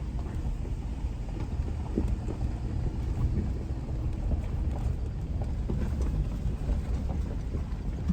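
Car driving on a rough dirt road: a steady low rumble with scattered light knocks.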